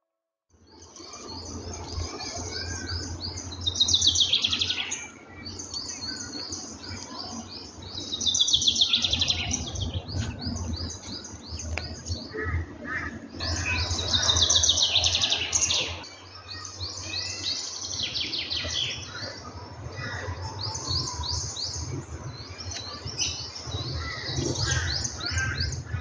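Forest birds chirping densely, with one bird's loud, descending trilled phrase recurring about every five seconds. A steady low rumble sits underneath.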